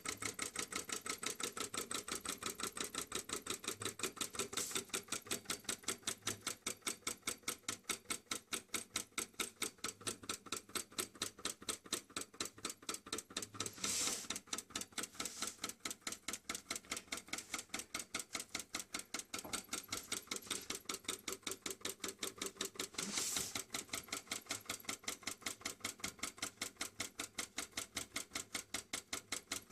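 Small solenoid engine with a flywheel running, its solenoid plunger clacking in a fast, even rhythm of about three strokes a second. A brief louder noise comes twice, about halfway and about three-quarters of the way through.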